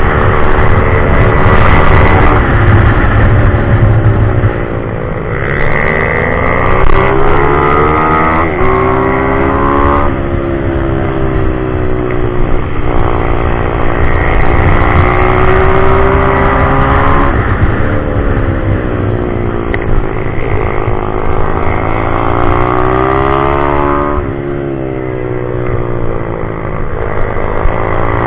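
Pit bike's small single-cylinder four-stroke engine at high revs, its pitch climbing hard and then dropping away several times as it accelerates out of corners and shuts off for the next.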